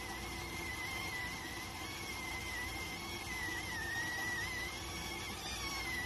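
Electric rice cooker whistling steadily while it cooks: one high tone that wavers slightly in pitch over a steady hiss of steam. A few fainter higher tones join near the end.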